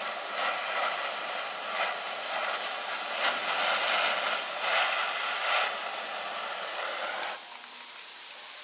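A steady rushing hiss, like air blowing from a workshop tool, that swells louder in the middle and cuts off suddenly near the end.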